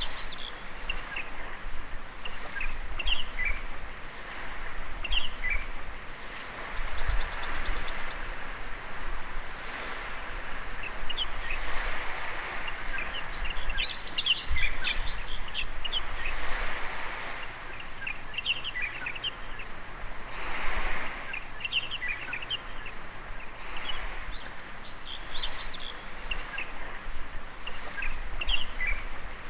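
Gentle waves washing onto a sandy shore in slow swells, with birds chirping short, high calls throughout. A quick run of repeated notes comes about seven seconds in.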